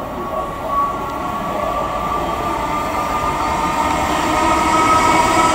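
ICE high-speed train approaching along the track, its running noise growing steadily louder, with a steady high whine over it.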